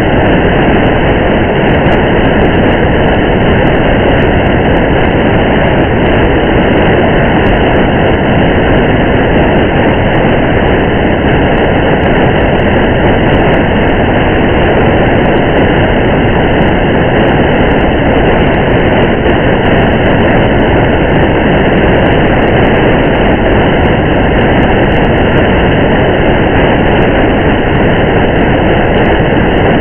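Steady rain and road noise of a car driving in the rain: a dense, even rush that holds unchanged throughout, with no distinct drops or other events standing out.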